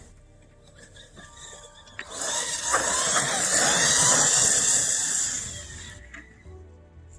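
CEN Reeper 1/7-scale electric RC monster truck driving past at speed: motor whine and tyres tearing over dirt. It comes in about two seconds in and fades away by about six seconds.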